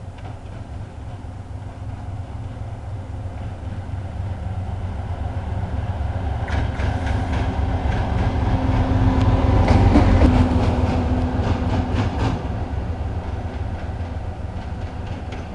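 TEM7A diesel shunting locomotive running light past, its engine drone building to loudest about ten seconds in and then fading. A run of wheel clicks over the rail joints comes as it goes by.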